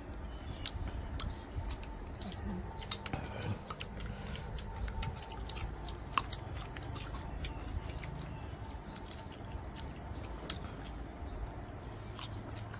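Chewing and crunching of crisp, half-ripe mango slices, with scattered small clicks and taps over a low steady background rumble.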